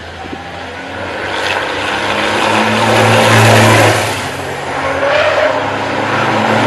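Racing vehicle engines passing at speed, swelling to a loud peak about three seconds in, easing off, then rising again near the end as more pass.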